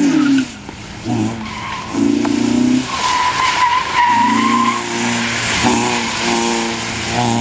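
Peugeot 106's twin-turbo 16-valve engine revving hard in repeated bursts, pitch climbing and falling as the throttle opens and shuts. Tyres squeal for a couple of seconds from about three seconds in as the car slides.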